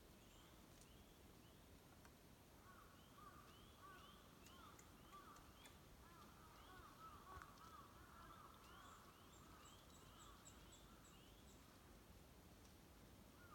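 Near silence with faint bird calls: short rising chirps repeated in quick series, about two or three a second, and a run of thin high ticks in the second half.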